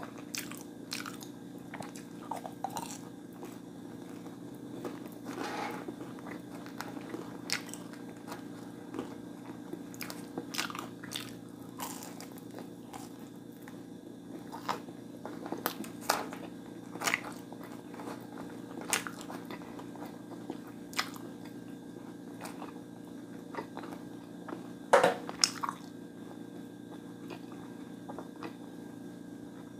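Close-up eating sounds: bites into crunchy fried food and chewing, with irregular crisp crunches, the loudest about 25 seconds in, over a steady low hum.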